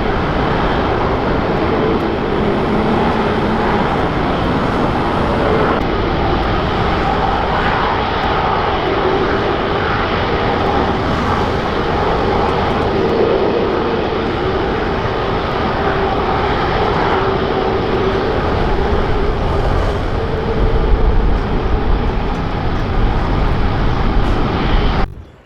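Jet airliner's engines, a loud steady roar with a faint whine in it and a low rumble that grows stronger near the end, then cuts off suddenly.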